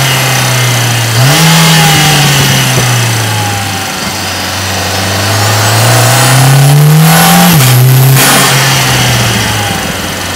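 Mercedes-AMG GLA 45's turbocharged 2.0-litre four-cylinder, heard from inside the cabin while driving. The revs jump up sharply about a second in and then fall away, then climb steadily under acceleration with a high whine rising alongside, until a gear change drops them suddenly with a brief burst of noise, after which the engine settles into a steady cruise.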